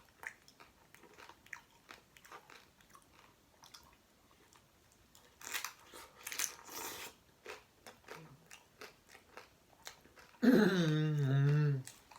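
Close-up chewing and crunching of a taco on a crisped tortilla, with wet mouth clicks and a louder crunchy stretch around the middle. Near the end comes a loud hum of the voice, held for about a second and a half and sliding a little lower: an appreciative "mmm".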